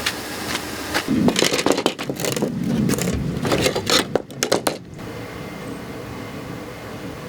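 Metal tools scraping and clattering in quick, irregular knocks for about four seconds, then stopping suddenly and leaving a steady low hum.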